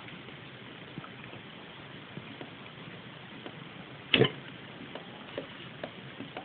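A young golden retriever gives one short, loud cough about four seconds in, against faint scattered clicks.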